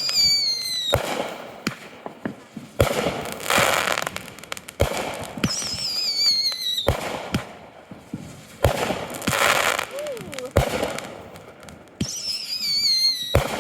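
Aerial fireworks going off: sharp bangs about every two seconds, three whistling shells whose whistle falls in pitch and ends in a bang, and a rushing crackle after some of the bursts.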